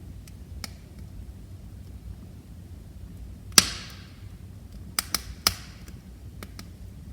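Wood fire in a fireplace burning with a low, steady rumble and sharp crackling pops. The loudest snap comes about halfway through, followed by a quick cluster of three a second and a half later, with fainter ticks in between.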